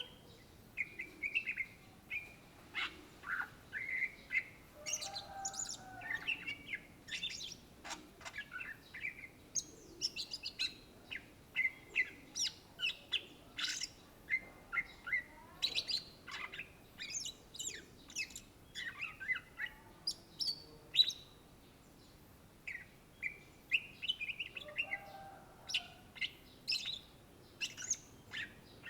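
Greater green leafbird (cucak ijo) singing a rapid, varied song of short chirps, whistled notes and trills, with a brief pause a little past the middle.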